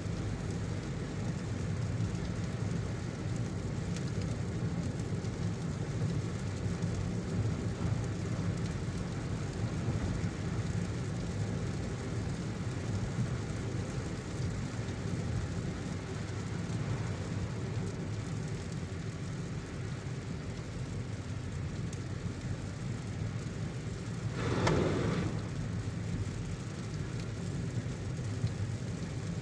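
A car driving in heavy rain: a steady low road-and-engine rumble mixed with the hiss of rain. About 25 seconds in there is one brief, louder rush.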